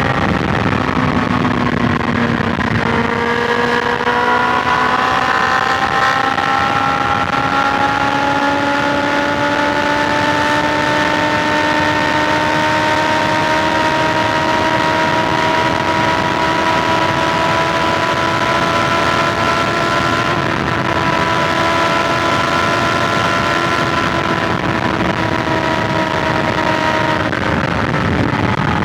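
BMW S1000XR's inline-four engine under way at highway speed, heard with wind rush. The engine note drops in the first couple of seconds, then climbs slowly and steadily as the bike gathers speed, holds, and eases off near the end.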